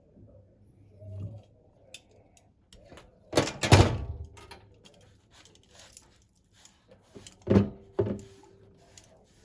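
Hard parts and tools being handled during disassembly of a single-lever mixer faucet: a burst of clattering knocks about four seconds in, then two sharper knocks near the end, the second ringing briefly, with small clicks between.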